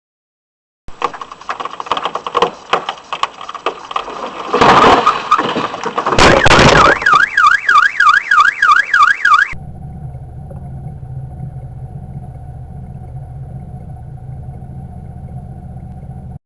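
Vehicle collision: loud crunching impacts, followed at once by a warbling alarm rising and falling about four times a second. It cuts off abruptly and gives way to a steady, quieter engine hum.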